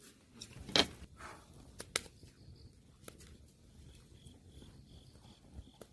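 A few sharp knocks or clicks, the loudest about a second in and another about two seconds in, with smaller ones later, over a faint steady background. From about four seconds in, a faint high note pulses about twice a second.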